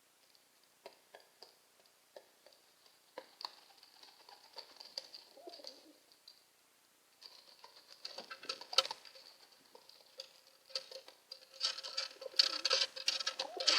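Pigeon moving about with scattered sharp clicks and scuffling, and a low coo. The scuffling grows louder and busier toward the end.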